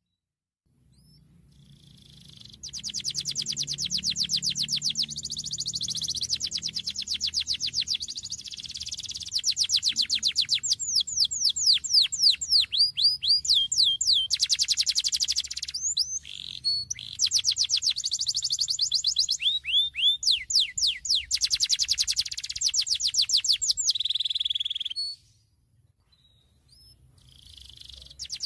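Domestic canary singing a long, loud song of fast trills and rapidly repeated high notes, broken by a few downward-sweeping whistles. It begins faintly after about a second, stops briefly a few seconds before the end, then starts up again.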